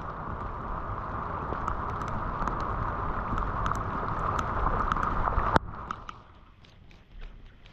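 Floodwater rushing and gurgling down a street storm drain, building steadily, then cutting off abruptly with a sharp click about five and a half seconds in, leaving quieter trickling with small ticks and splashes.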